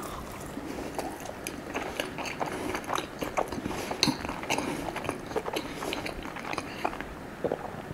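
A person chewing and biting a crepe close to the microphone, with irregular small clicks and mouth smacks.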